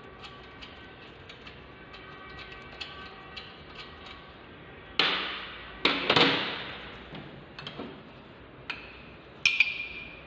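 Metal-on-metal work on an S-cam drum brake assembly as its counter bolt is unscrewed and removed. Light ticks and clicks come first, then several loud metal knocks from about halfway, and near the end a sharp clink that rings briefly.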